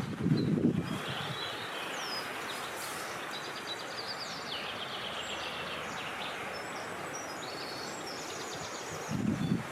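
Wind blowing steadily outdoors while several small birds chirp and trill. Brief low gusts come near the start and again near the end.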